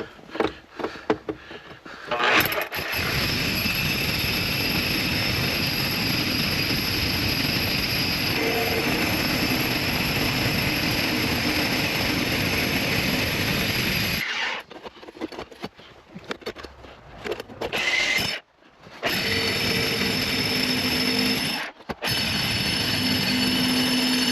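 Power drill boring a hole through a concrete wall for a gas line. It runs steadily for about twelve seconds, stops, then runs again in two shorter bursts near the end.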